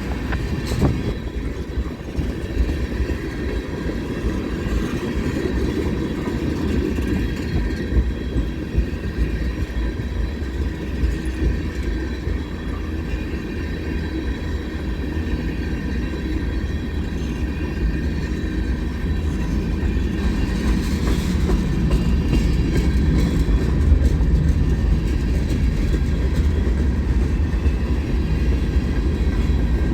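A train rolling past on the track: a steady low rumble of steel wheels on rail with some clickety-clack, getting a little louder partway through.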